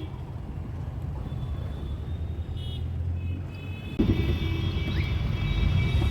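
Low rumble of a taxi driving on the road, heard from inside the car; it gets louder about four seconds in.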